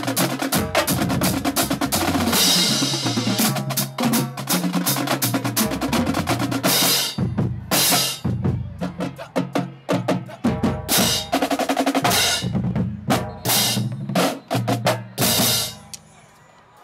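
Marching drumline playing a cadence: fast, dense snare rolls over runs of tuned bass drums. About seven seconds in it breaks into sparser, spaced-out hits, and it stops about a second before the end.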